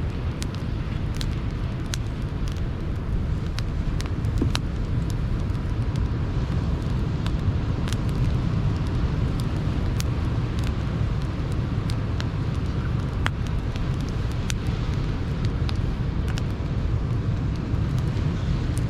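Wood campfire crackling, with scattered sharp pops at irregular intervals, over the steady low rumble of sea surf.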